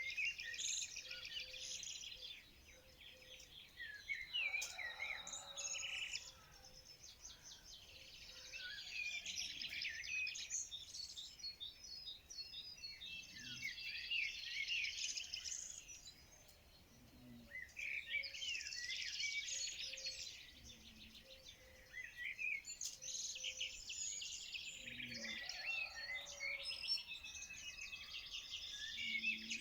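Many small songbirds chirping and twittering together in overlapping, high, quick calls. The chorus swells into dense bursts and thins out again every few seconds.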